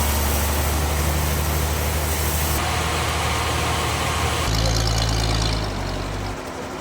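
Sawmill machinery running: a steady low engine hum under a hiss-like noise, shifting abruptly in pitch and tone a few times.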